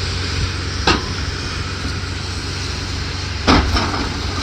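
Excavator at work demolishing a building: a steady engine rumble with two sharp knocks, one about a second in and one near the end.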